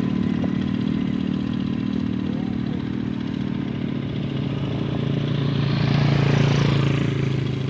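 Motor vehicle engine running steadily, its hum settling lower in pitch, with the sound swelling louder as a vehicle passes close about six seconds in.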